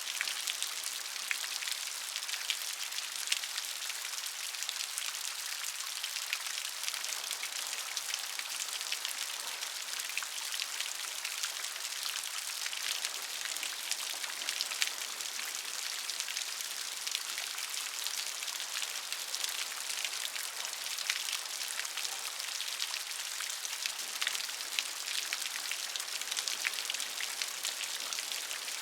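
Steady rain with many individual drops ticking on a surface, an even patter without a break.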